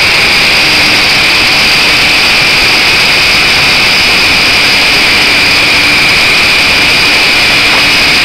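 Small Harbor Freight pneumatic orbital sander running steadily at full speed, a loud high-pitched air hiss and whir. It is drawing on the tank of the air compressor, which does not kick on.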